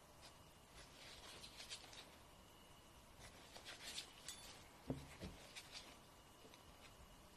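Faint rasping strokes of a nail being ground down, in two short runs, followed by two soft knocks about five seconds in.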